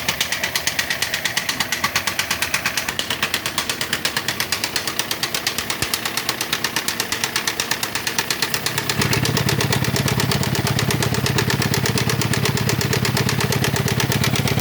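Fiat Idea Adventure's 1.6 16-valve engine running with a rapid, rhythmic knock, louder from the bottom of the engine. About nine seconds in, the sound turns suddenly louder and steadier in its low range. The knock is typical of broken piston rings, which the mechanic suspects, with cylinder one holding no compression.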